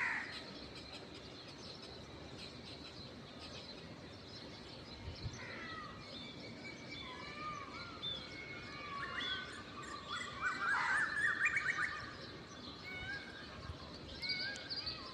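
Small birds chirping and calling over steady outdoor background noise, with a quick run of repeated notes near the middle that is the loudest part. A crow caws once right at the start.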